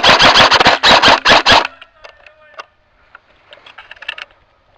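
Airsoft rifle firing one rapid burst of about ten shots, lasting about a second and a half, loud and close.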